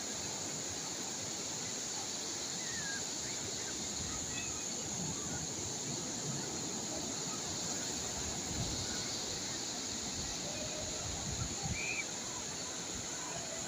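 Calm sea waves washing steadily, with a few faint bird chirps and a high steady hiss. Wind buffets the microphone with low rumbles from about a third of the way in until near the end.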